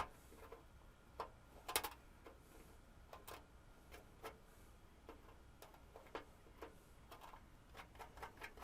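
Cutters snipping through a component lead on an LED backlight strip: a sharp snip at the start and another just under two seconds in, with fainter small clicks of handling between and after.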